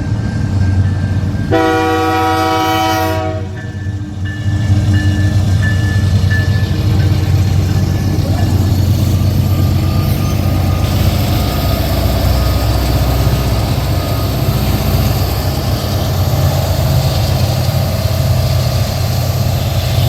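Train passing close by, its locomotive rumbling steadily. The locomotive horn sounds one blast of about two seconds near the start, then the train keeps rolling past.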